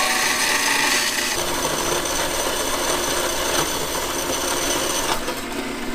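Handheld power tool grinding and trimming metal, running steadily. The sound changes a little over a second in and cuts off about five seconds in.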